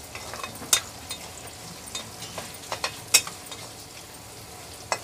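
Onions sizzling as they fry in oil in a pan, heading toward golden brown. A spoon stirring them scrapes and knocks sharply against the pan now and then, the loudest knock a little after halfway.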